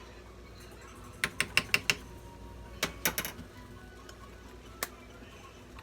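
Quick sharp taps and clicks of kitchen utensils against the cooking pot as a tablespoon of dried oregano is added: a fast run of about five, then a few more, then a single tap.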